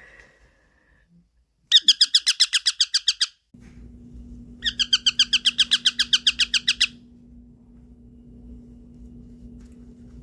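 Baby parrot giving two bouts of rapid, evenly repeated chirping calls, about ten a second, each bout lasting one to two seconds. A steady low hum starts a few seconds in.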